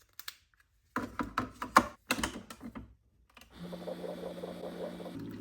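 A quick run of clicks and knocks, followed about three and a half seconds in by a steady hum.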